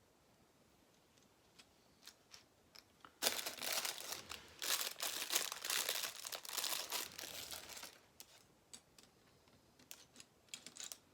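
Plastic bags of Lego pieces crinkling as they are rummaged through for about five seconds, with small clicks of plastic bricks before and after.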